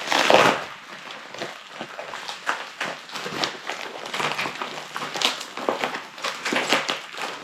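Packaging being handled and unwrapped: irregular crinkling and rustling with small clicks, loudest in a rustle just after the start.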